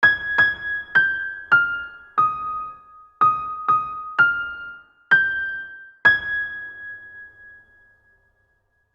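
A short intro melody of about ten single bell-like keyboard notes, each struck and left to fade, stepping down in pitch and back up; the last note rings out and dies away.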